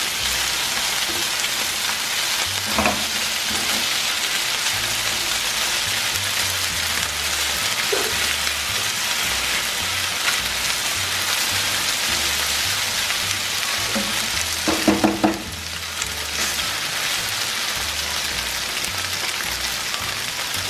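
Chicken pieces frying in oil in a pan, a steady sizzle while they brown. A brief louder clatter of stirring comes about fifteen seconds in, and the sizzle is a little quieter after it.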